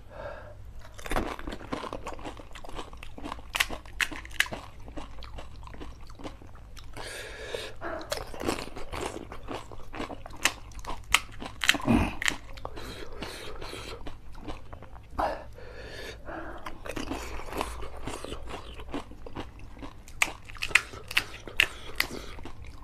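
Crisp pani puri (golgappa) shells crunching as they are bitten and chewed, with sharp crunches coming in clusters throughout.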